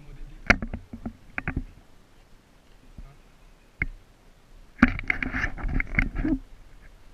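G&G AR-15 airsoft electric gun firing: a few sharp single shots in the first second and a half, one more near four seconds in, then a rapid string of shots for about a second and a half.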